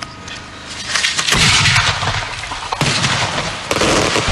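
Fireworks going off at close range: about a second in, a dense crackling starts, with repeated bangs and a heavy low rumble.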